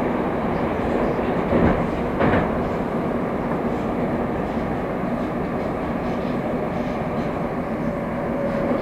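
Moscow Metro train running through a tunnel: a steady rumble of wheels on rail, with two louder knocks of the wheels over rail joints about two seconds in.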